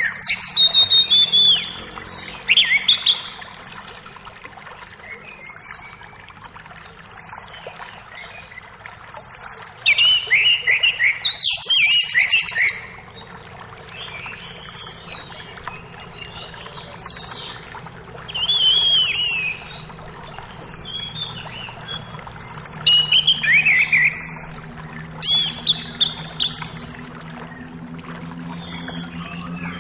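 Several songbirds singing: one repeats a short high note about every second and a half, while others give quick descending runs of notes, and a dense high trill comes about twelve seconds in. A faint steady rush of creek water lies underneath.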